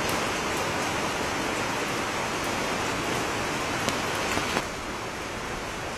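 Steady rain falling on wet, puddled paving tiles, an even hiss with a few sharp drop taps about four seconds in; the rain sound eases a little soon after.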